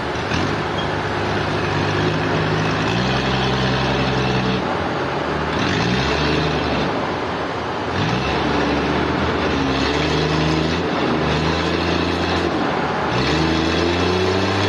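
A heavy machine's engine running under varying load, its pitch stepping up and down and gliding between levels every second or two over steady mechanical noise.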